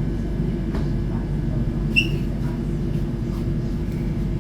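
Steady low rumble of a suburban electric train heard inside the carriage as it runs along, with one short high squeak about two seconds in.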